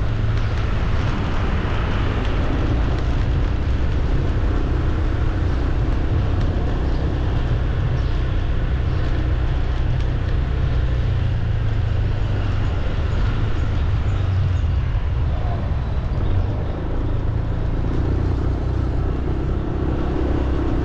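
Steady city street traffic noise: vehicles running past, with a heavy low rumble throughout.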